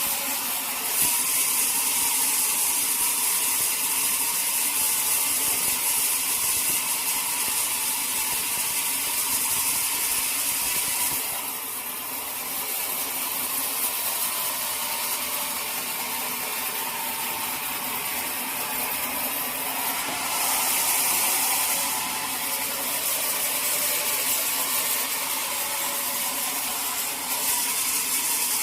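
Sawmill saw running through a teak log: a steady, hissing machine noise. It eases off about a third of the way through and picks up again twice later.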